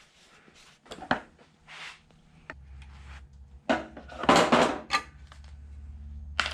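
Hand tools working small screws out of a scooter's metal back plate: scattered clicks, then a few louder bursts of metallic clattering and rattling, over a low hum that comes in partway through.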